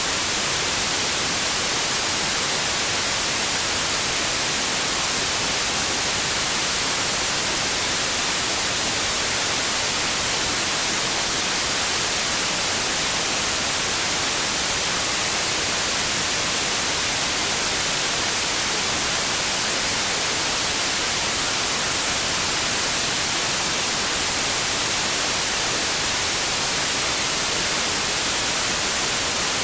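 Steady white noise: an even, unchanging hiss, brightest in the high frequencies, with no breaks or other sounds.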